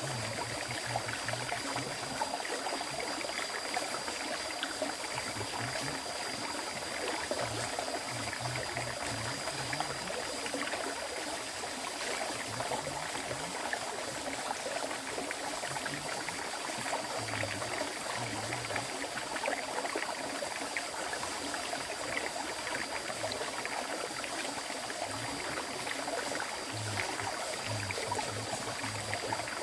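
Flowing river water, a steady rushing and gurgling stream with a faint steady high-pitched tone over it.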